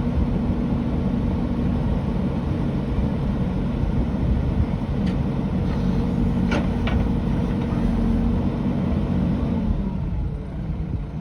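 Heavy construction machine's engine running steadily, with a few sharp clanks about midway, and the engine note easing off near the end.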